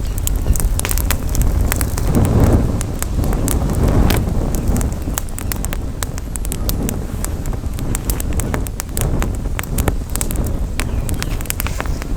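Campfire crackling, with frequent sharp pops and snaps of burning wood, over a steady low rumble of wind on the microphone that swells about two seconds in and again around four seconds.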